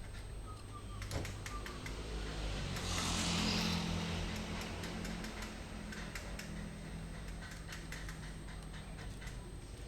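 Zebra dove feeding her squabs at the nest: scattered light clicks and ticks, with a rustling swell about three seconds in, over a steady low hum.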